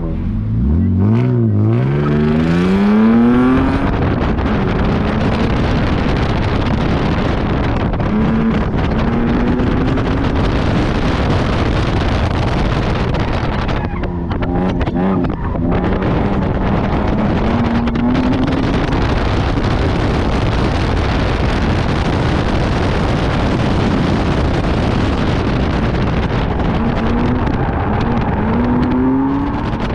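BMW E36 328i's straight-six engine revving hard from a standing launch, its pitch climbing steeply for the first few seconds before a gear change. It then runs through the course with repeated rises and dips in revs and a brief lift about halfway, over a steady rushing noise of the car at speed.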